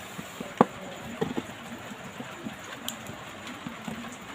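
Scattered small sharp clicks and taps of a hand tool working on an opened smartphone's display connector, the clearest about half a second in.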